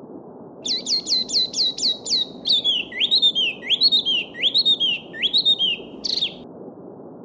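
A songbird sings one phrase of about six seconds, starting about half a second in: a quick run of falling notes, then a series of rising slurred whistles. Under it runs the steady rush of a babbling brook.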